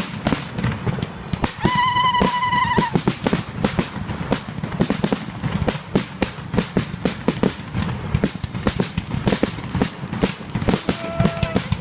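Fireworks display: dense, rapid crackling and bangs throughout. A whistling tone about two seconds in lasts about a second, and a shorter whistle comes near the end.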